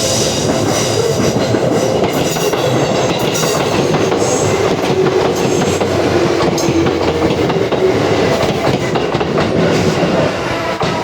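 Seibu 4000 series electric train running along the track, loud and steady, its wheels clicking over rail joints. It fades somewhat right at the end.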